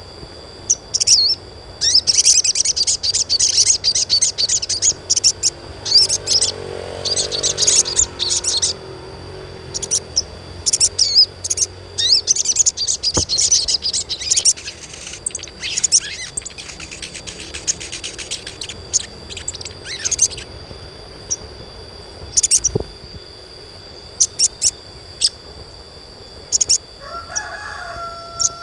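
Sogon (sogok ontong, the little spiderhunter) chirping: rapid runs of short, sharp, high chirps in bursts of a few seconds with short pauses between, a call played to stir young birds into singing.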